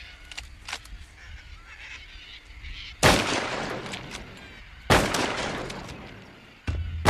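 Two high-powered rifle shots about two seconds apart, each echoing away, fired to scare off raiding cockatoos, with harsh bird calls around them. Another loud blast comes near the end.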